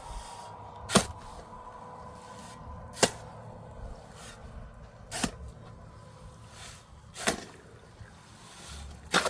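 Five sharp strikes at an even pace, about one every two seconds, like a hand tool being swung and hitting something hard.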